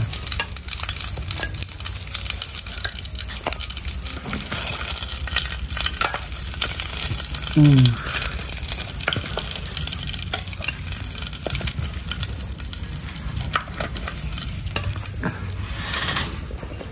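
Scorpions frying in hot oil in an aluminium pot, a steady sizzle with chopsticks clicking against the pot as they are stirred and lifted out. A short, loud voice-like sound about eight seconds in.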